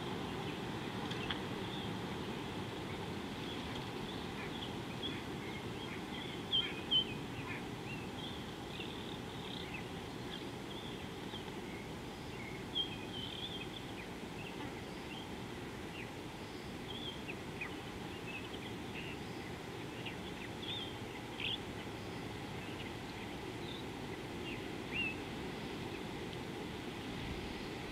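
Outdoor bush ambience: a steady low noise with many short, high bird chirps scattered throughout.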